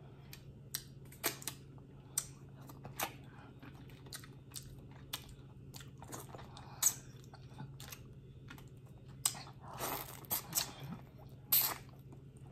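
Close-miked boiled crawfish shells cracking and being peeled by hand, with sharp clicks at irregular intervals, and chewing. Near the end come a couple of longer, louder noisy sounds.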